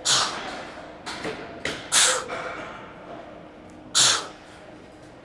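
A man's forceful exhalations, short and hissing, about one every two seconds, the breathing of a lifter pushing through skull crusher reps.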